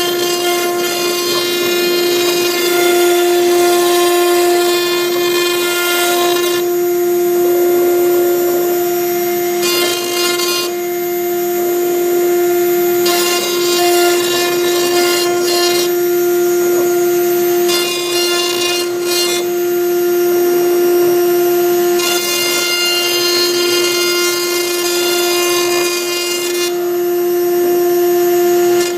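CNC router spindle running with a steady high whine while a V-bit engraves MDF. A hissing cutting noise over the whine weakens and comes back several times as the machine works.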